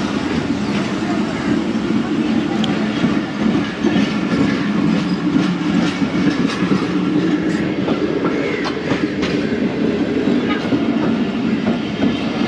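A train running on the track past the station: a steady rumble with repeated clicks of the wheels going over the rail joints.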